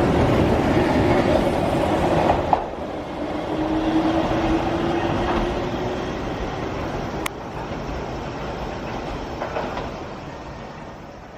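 Keihan Otsu Line electric train running past on the rails, its wheels clacking over the track. The noise drops about two and a half seconds in, a steady tone sounds for a couple of seconds after that, there is one sharp click later on, and the sound fades away near the end.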